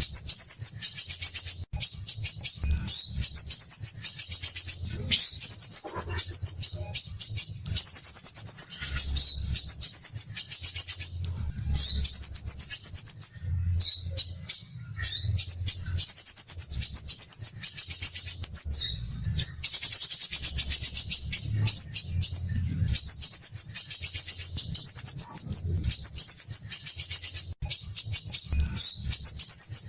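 Crimson sunbird (sepah raja) singing a dense, rough, rapid trill ('besetan kasar rapat'). The song is high-pitched, delivered in phrases of a second or two with brief breaks between them.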